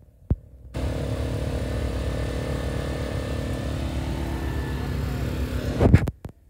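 A vehicle engine running steadily with a low rumble, starting abruptly about a second in. It ends with a loud sudden knock just before the sound cuts off near the end.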